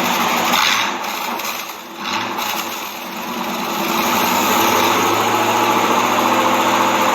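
1996 Chevy pickup's engine being revved: the revs fall away about two seconds in, then climb and hold high and steady.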